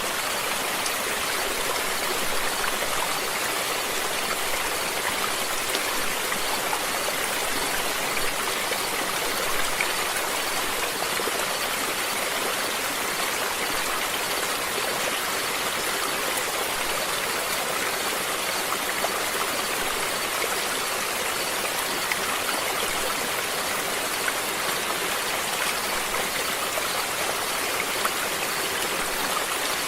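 Water flowing in a stream: a steady, unbroken rush and splash, more hiss than rumble.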